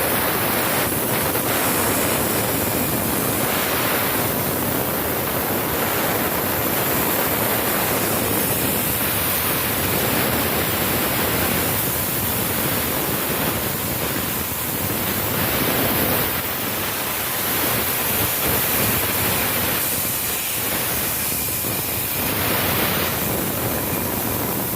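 Compressed air blowing with a loud, steady hiss, sprayed into a Weichai cylinder head's port to leak-test the freshly lapped valves: any leak at the valve seat would show as bubbles.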